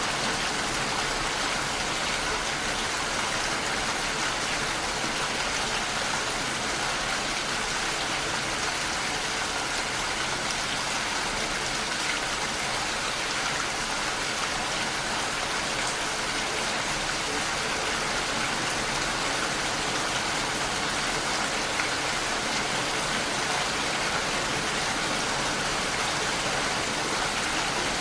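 Steady rain falling against a window, an even patter of drops with no pauses or single knocks.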